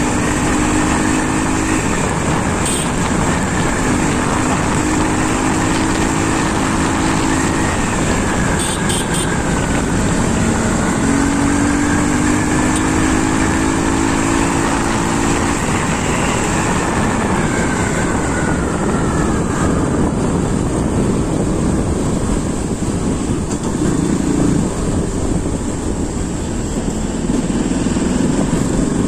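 An engine running steadily, with a higher whine that wavers up and down in pitch and fades out about two-thirds of the way through.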